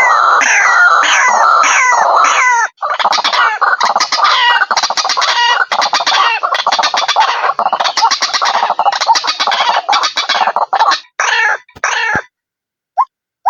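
White-breasted waterhen calling: a loud, fast run of repeated harsh notes with a short break about three seconds in. The run stops abruptly about twelve seconds in. Single short notes, evenly spaced, start near the end.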